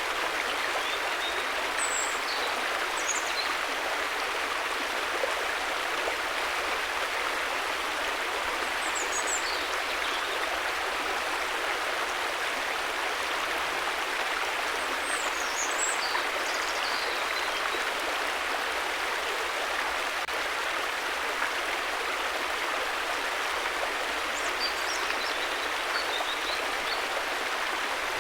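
Steady rushing of river water flowing over rocks, an even, unbroken hiss, with a few faint high chirps now and then.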